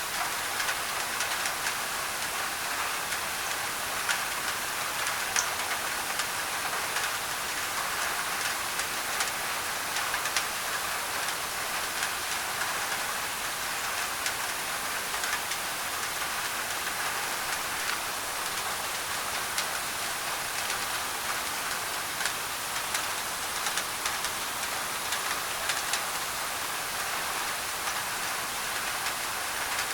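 Steady rain on a thin tin roof: a dense, even hiss scattered with many sharp drop ticks, with white noise mixed in.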